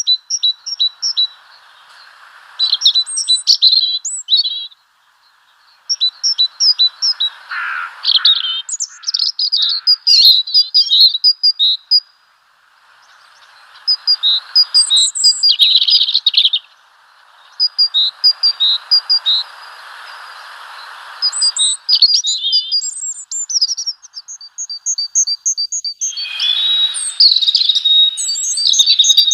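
Small songbirds chirping and calling, with many short high notes in quick series and a run of evenly spaced notes near the end.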